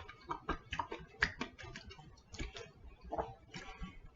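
A person chewing a bite of strawberry close to the microphone: irregular small mouth clicks, several a second.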